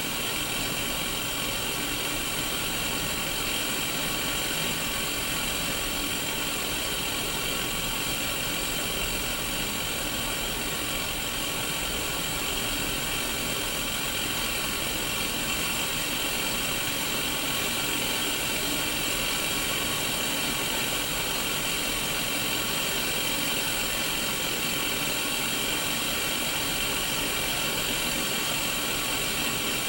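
Steady static hiss from a Sony Mega Watchman mini black-and-white CRT TV, strongest in the upper-middle range and unchanging.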